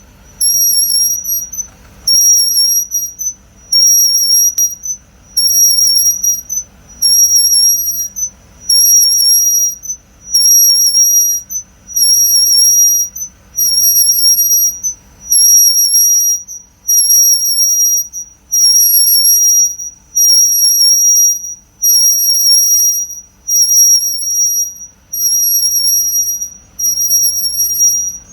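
Right rear disc brake squealing on a car's turning wheel: a loud, high-pitched squeal that pulses about once a second, over a low steady running hum. The squeal persists even after the pads were removed and sanded.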